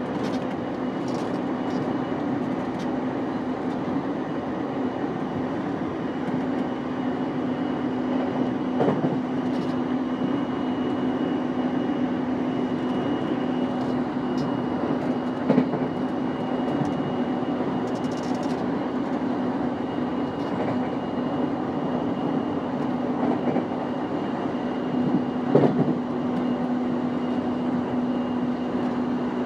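E233 series 5000 electric train running at a steady speed: a continuous rumble with a steady hum and a faint high tone, broken by a few isolated thumps from the wheels over the rails.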